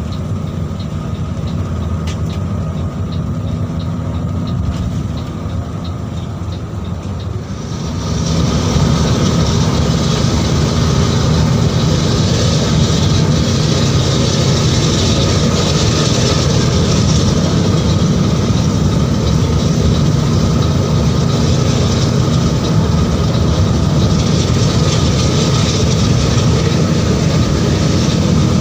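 Mercedes-Benz 1626 bus on the move: a steady low engine hum with road noise, which grows suddenly louder and more hissy about eight seconds in and stays so.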